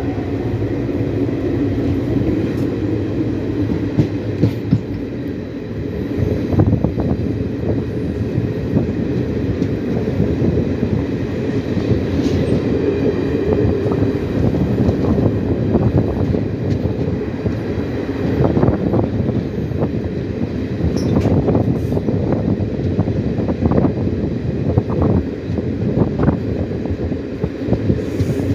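Moving train running on the track: a steady rumble with irregular clattering of wheels over the rails.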